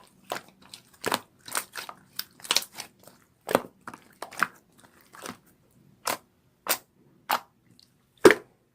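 A string of sharp, short crunches close to the microphone, quick and irregular at first, then spaced out to single crunches about every half second to a second near the end.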